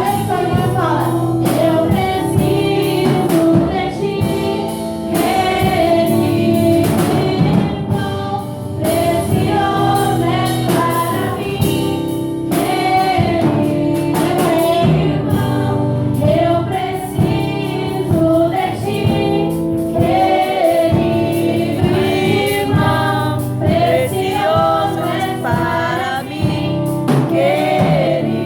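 Gospel worship music: a group of voices singing a hymn together over a steady instrumental accompaniment.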